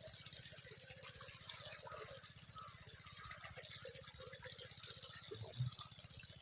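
Tubewell water flowing and gushing into a field, faint, with a fast, steady low pulsing underneath.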